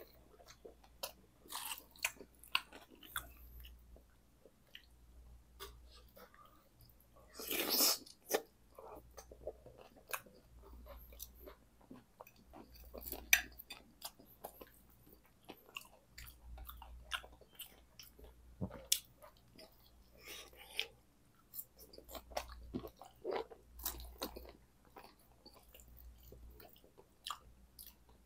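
Close-miked chewing of a mouthful of cheese-smothered curly fries and jalapeño slices, with many short mouth clicks and smacks throughout and one louder, longer burst about eight seconds in.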